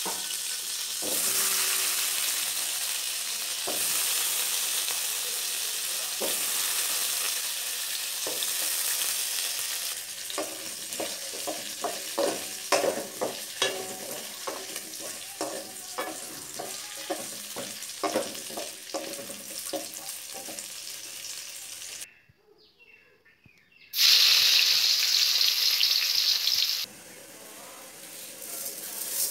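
Hot oil sizzling in a metal pot, then cubed potatoes frying while a spatula scrapes and knocks against the pot many times. After a short break, a loud sizzle of sliced onions frying starts, then settles to a quieter frying.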